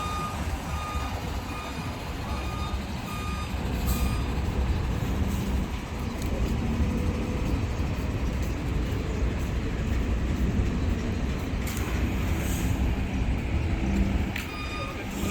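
A construction vehicle's reversing alarm beeping about once a second over the low, steady rumble of a heavy engine. The beeping is clearest in the first few seconds and comes back near the end.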